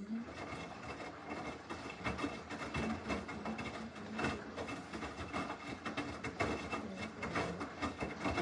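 Samsung front-loading washing machine running its normal wash cycle: the drum tumbling the load with irregular knocking and clatter over a faint steady hum.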